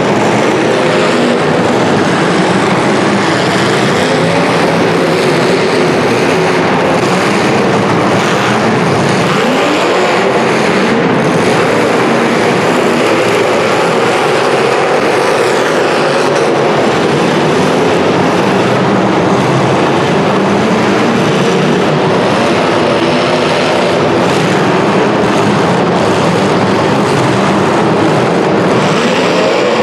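Several demolition derby cars' engines running and revving at once in a loud, steady din, the pitch of the engines wavering up and down.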